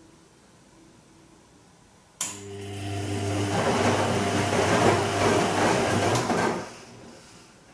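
Bosch Serie 2 Vario Perfect washing machine on a gentle silk wash: a click as the drum motor starts about two seconds in, then a steady motor hum and the swish of wet laundry turning in the drum for about four seconds before it stops.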